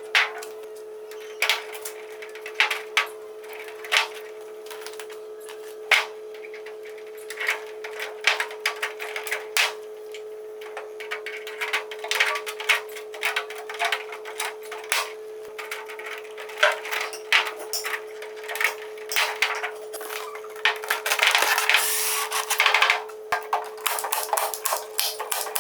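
Irregular clicks, taps and knocks of hard objects being handled, over a steady hum, with a short stretch of scraping or rustling near the end.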